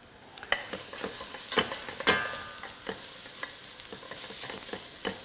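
Sliced onion sizzling in olive oil in a stainless steel saucepan, being stirred with a wooden spoon. The sizzle starts about half a second in and holds steady, with several knocks and scrapes of the spoon against the pan.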